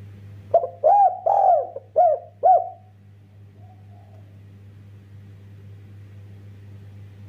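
Spotted dove (derkuku) cooing: one phrase of five notes, each rising and falling in pitch, starting about half a second in and lasting a little over two seconds, followed by a faint short coo.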